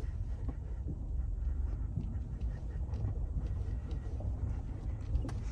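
Steady low road rumble of a vehicle driving while towing a boat on its trailer, heard from inside the cab, with light scattered ticks and rattles.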